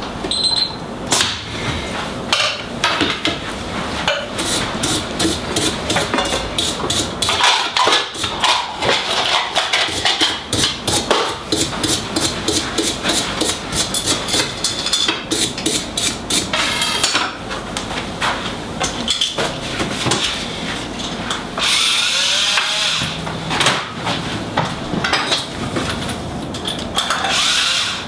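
Knocking, tapping and clattering of tools at a golf club repair bench, with a rushing hiss lasting about two seconds about three-quarters of the way through.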